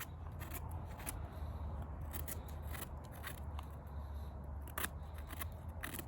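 Wood campfire crackling: irregular sharp pops and snaps over a steady low rumble, with a couple of louder pops near the end.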